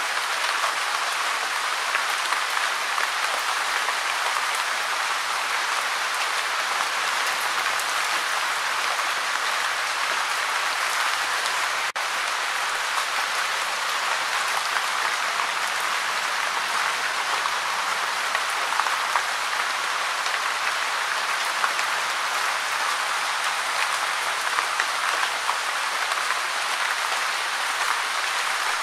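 Gentle rain falling steadily, an even patter of many fine drops, with a momentary dropout about twelve seconds in.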